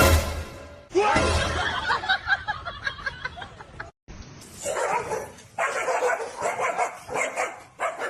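Dog barking in runs of short, sharp barks, with a cut about four seconds in to a second bout of barking.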